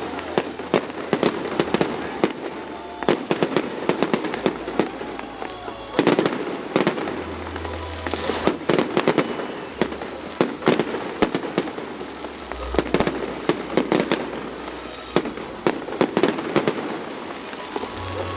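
Fireworks going off: a continuous string of sharp bangs and crackling pops at irregular intervals, several a second.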